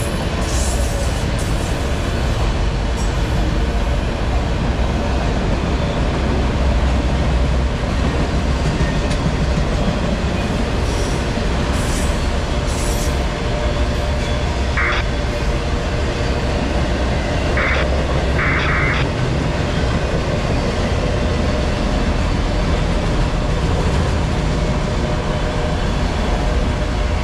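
Norfolk Southern autorack freight cars rolling past, with a steady loud rumble of wheels on rail. A few short, high wheel squeals come through about halfway and again near the end.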